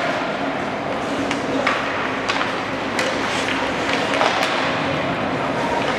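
Gym ambience during a youth basketball game: a steady hubbub of voices echoing in a large hall, with a handful of sharp taps and knocks scattered through it.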